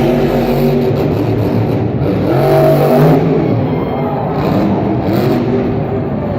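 Monster truck's supercharged V8 engine revving hard: the pitch climbs to a peak about three seconds in, then rises and falls again with the throttle.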